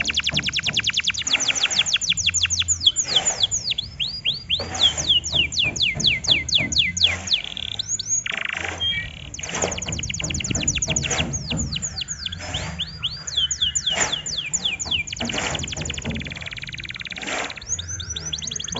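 Domestic canary singing in fast trills of repeated downward-sweeping high notes, switching between quicker and slower note series with short breaks: a lure song used to provoke other canaries into singing.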